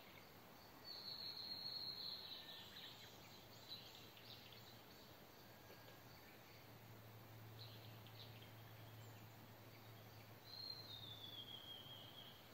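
Faint outdoor ambience with a bird giving two thin, high, slightly falling calls, one about a second in and one near the end, with a few short chirps between.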